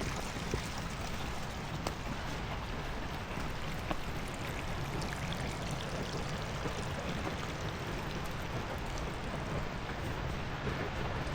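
Steady rushing of a creek or waterfall, with a few light clicks over it.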